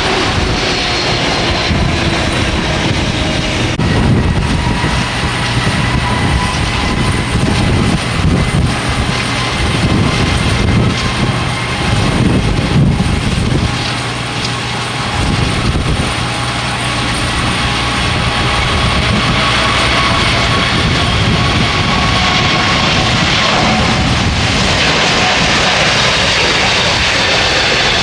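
Jet airliner engines running loud and steady, with thin fan whine tones that drift slowly in pitch, over gusty wind rumbling on the microphone.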